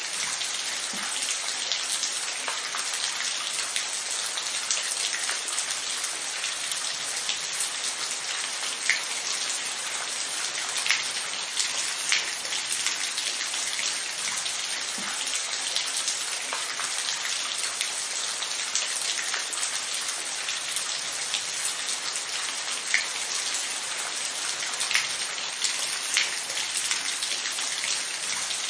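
Steady rainfall, a continuous hiss with many individual drops pattering on a surface.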